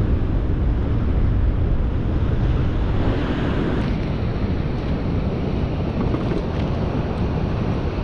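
Strong wind buffeting the microphone over the steady wash of surf breaking on a beach.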